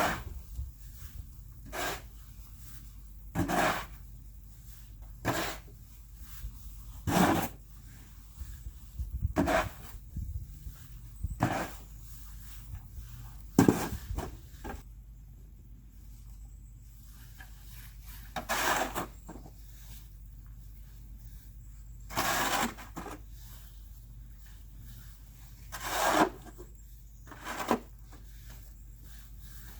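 Snow shovel scraping and pushing through snow: about a dozen separate strokes, one every two seconds or so, with a longer pause around the middle.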